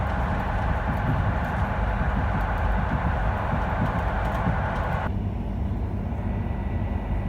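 PKP EN57 electric multiple unit running on the line, heard from inside: a steady rumble of the wheels and running gear. A louder rushing hiss over it cuts off suddenly about five seconds in.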